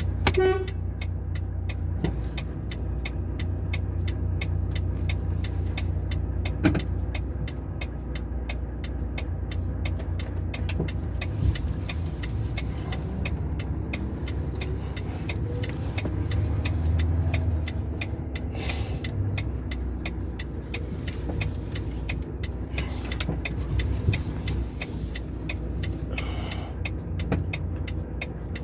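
Heavy truck's diesel engine running steadily while reversing, with a reversing alarm beeping at an even rate throughout. A few single knocks stand out, about 7, 11 and 24 seconds in.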